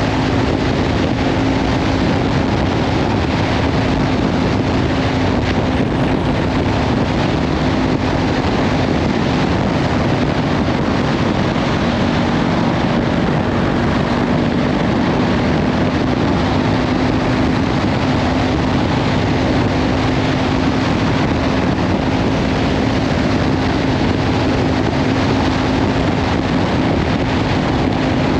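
Kawasaki Ninja 500 parallel-twin with a Leovince slip-on exhaust running at a steady cruise, its engine note half buried under heavy wind noise on the microphone. The engine note sags slightly around the middle and comes back up.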